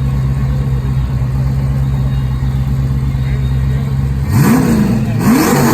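Hennessey Venom GT's twin-turbo V8 idling steadily, then revved twice in quick succession near the end, the second rev climbing higher.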